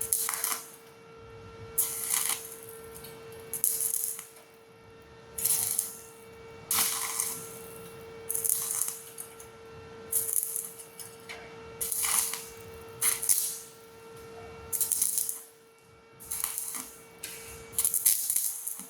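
Stick welding arc on thin galvanized steel pipe, crackling in short bursts of about half a second, one every second or two. This is the arc being struck and broken again and again, a stitch technique used to keep from burning through thin metal.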